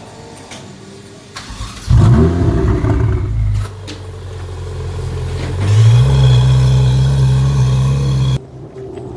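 Ferrari engine blipped hard about two seconds in, its pitch falling back as the revs drop. Then it rises again to a strong, steady note under acceleration, which cuts off suddenly near the end.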